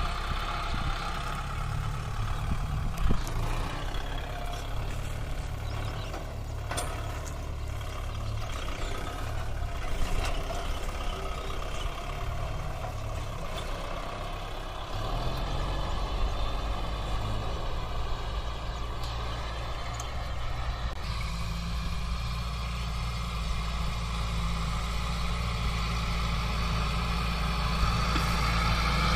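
Kubota MU 4501 tractor's four-cylinder diesel engine running steadily under work, with a few light knocks. The engine note grows heavier and a little louder about halfway through.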